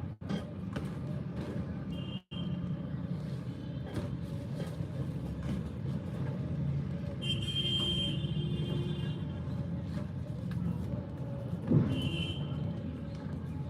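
Steady low rumble like road traffic, with three short bursts of high steady tones, about two, eight and twelve seconds in, and a single knock just before the last of them.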